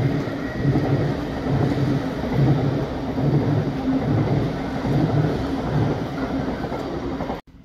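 Electric multiple-unit passenger train passing close by: a steady rumble with a regular low beat from the wheels on the rails. It cuts off suddenly near the end.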